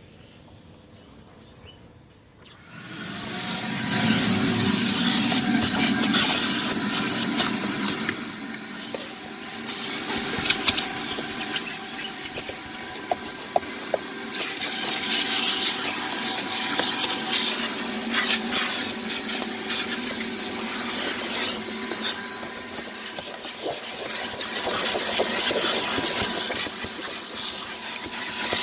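A motor-driven machine starts up about two and a half seconds in and runs steadily with a rushing hiss and a steady whine, blowing or spraying water.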